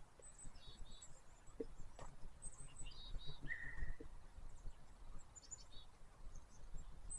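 Small birds chirping and calling, short high notes scattered throughout with one brief held whistle midway, over a low steady rumble and a few soft knocks.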